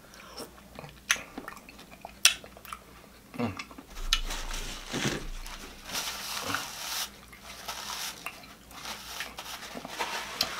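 Close mouth sounds of chewing zucchini noodles, with sharp smacks and clicks. From about four to seven seconds in, a paper napkin rustles as it wipes the mouth.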